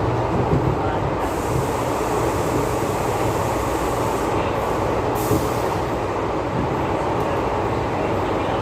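MTR East Rail MLR (Metro-Cammell) electric multiple unit running along the line: a steady low hum over a continuous rumble of wheels on track. A stretch of higher hiss comes in about a second in, and a brief brighter hiss comes a little after five seconds.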